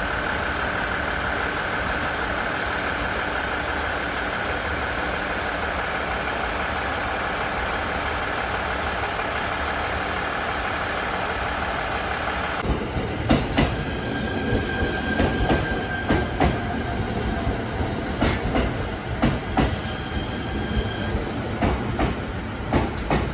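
A steady mechanical hum with a high whine from a train standing at the platform. About halfway through, the sound cuts to a Shinano Railway SR1 series electric train rolling slowly past: irregular clacks as its wheels cross rail joints, with some brief wheel squeal.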